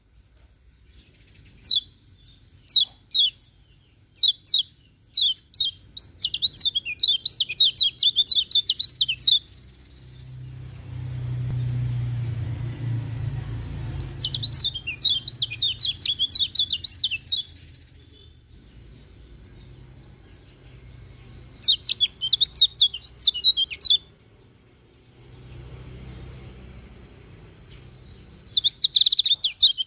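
Kecial kuning white-eye singing. It gives a few separate short chirps, then quick runs of high twittering notes that come in phrases a few seconds long, with pauses between them. A low, soft rumble fills two of the pauses.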